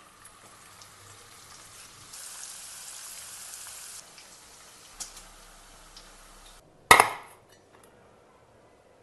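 Paneer pieces sizzling in hot oil, a steady hiss that grows louder about two seconds in and then cuts off suddenly. Just after, a single loud knock.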